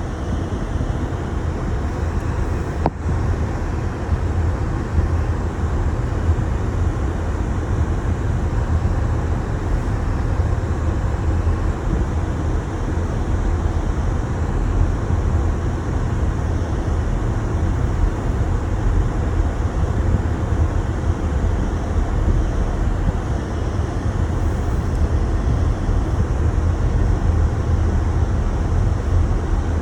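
Car driving on a snowy road, a steady low rumble of tyres and engine.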